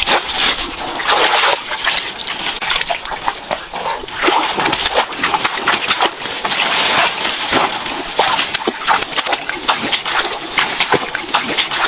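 Water splashing and sloshing in a dense, irregular run of small splashes and clicks.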